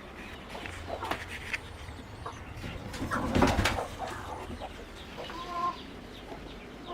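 Domestic chickens clucking in short calls, with scattered clicks and a louder burst of rustling noise about halfway through.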